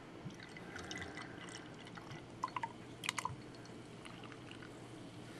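Dark ale being poured from a bottle into a glass, a faint liquid pour with a few small clinks about two and a half and three seconds in.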